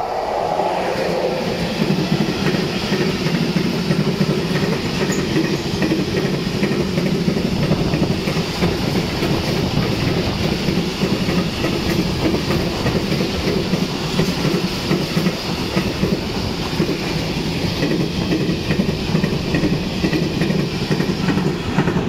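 DB Class 185 electric freight locomotive passing close by, its sound falling in pitch in the first second, followed by a long freight train of covered and flat wagons. The wagons make a steady rumble with wheels clattering on the rails.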